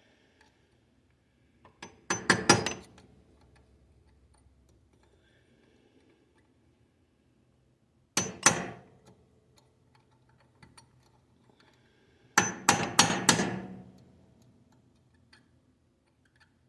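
Hammer blows on a steel punch, sharp metallic clinks with a brief ring, driving at a stuck part of a Kubota BX2200 front drive shaft. They come in three bursts: a quick group of blows about two seconds in, a single blow midway, and a quicker run of several blows near the end.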